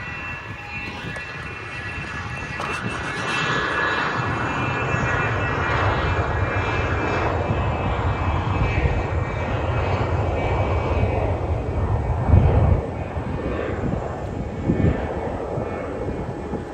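Another aircraft's engines running nearby: the noise grows louder about three seconds in, holds steady, peaks briefly near the twelve-second mark and then drops back.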